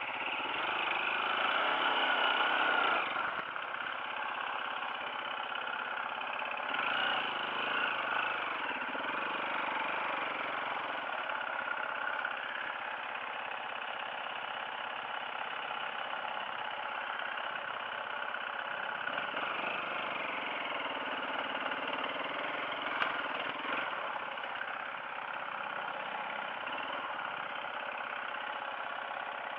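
Off-road motorcycle engine running under way, its pitch wavering as the revs change. It is somewhat louder for the first few seconds.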